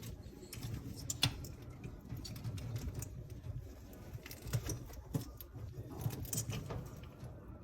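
Moluccan cockatoo scuffling about, with scattered light clicks and taps at irregular intervals.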